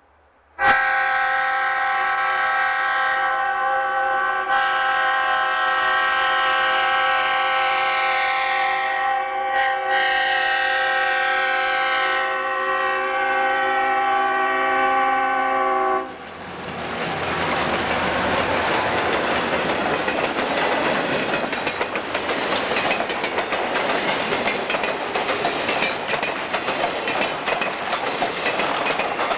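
Diesel freight locomotive's air horn sounding one long, steady multi-note blast for about fifteen seconds, then cutting off abruptly as the locomotive passes. After it comes the continuous rushing rumble of the empty freight cars rolling past close by.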